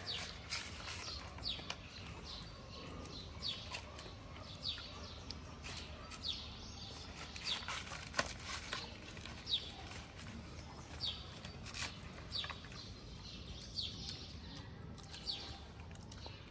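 A small bird chirping over and over, short falling chirps about once a second, over a low steady background hum, with now and then a faint click.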